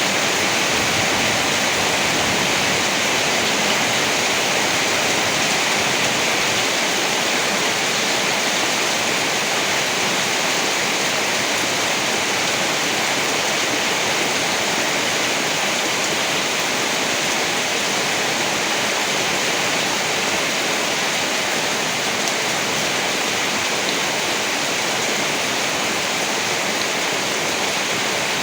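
Steady heavy rain, an even unbroken hiss with no thunderclaps.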